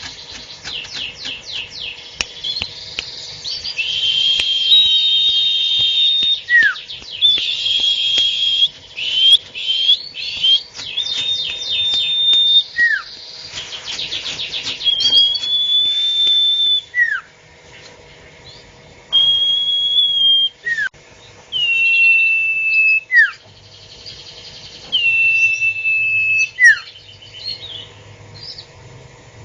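A sirtu songbird singing non-stop and fast, as keepers call 'gacor': rapid rattling trills alternate with held high whistles. A short downward-sliding note breaks in about every three seconds.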